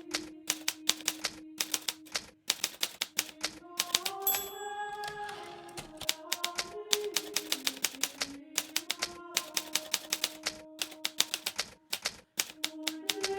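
Hermes Baby portable typewriter being typed on steadily, a rapid run of key strikes with two brief pauses, and a short bell-like ring about four seconds in. A slow, sustained music melody plays underneath.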